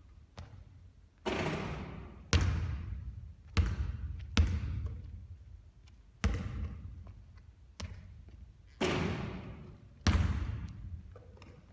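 Basketballs bouncing hard on a court during three-point shooting practice: a sharp bang every second or so, each one echoing on and fading.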